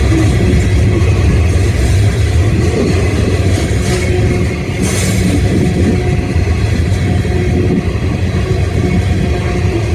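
Heavy diesel freight train passing with a loud, steady low rumble, and a brief hiss about halfway through.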